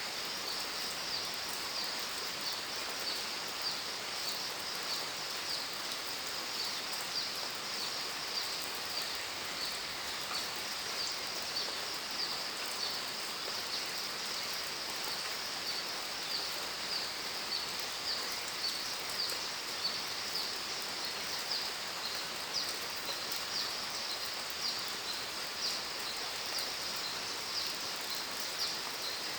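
Steady rain falling, with a continuous high-pitched pulsing chirp from small creatures over it.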